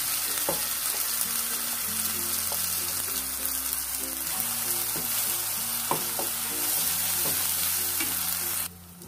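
Ground coconut chutney paste sizzling in hot oil in a non-stick wok as it is tipped in and stirred with a spatula, with a few light clicks of the spatula and jar. Background music plays underneath. The sizzle cuts off abruptly near the end.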